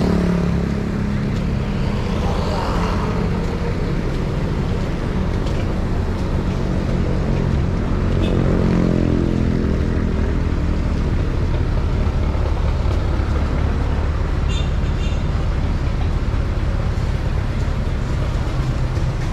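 Road traffic passing close by: a steady engine rumble, with one vehicle's engine note falling in pitch as it goes past about halfway through.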